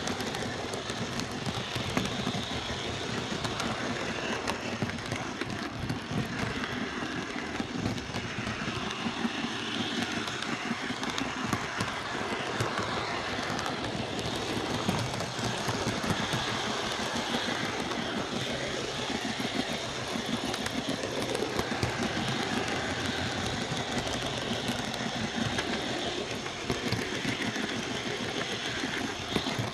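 OO gauge Lima Class 117 DMU model running along the track on its newly fitted CD motor: a steady run with many fine clicks from the wheels on the rails.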